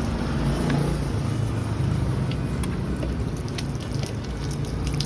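Steady low rumble of vehicle traffic on the street, with a few light clicks and taps.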